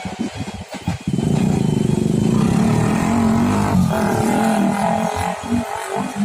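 A motor vehicle passing close by: loud, steady running with a low hum, starting about a second in and turning choppy near the end.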